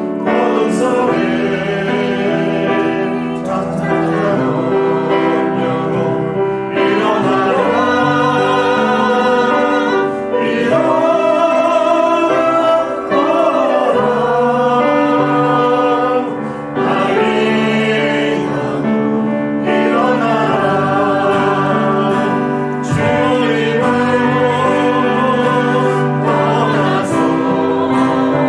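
Church praise team singing a worship song together with instrumental accompaniment, sustained chords under the voices.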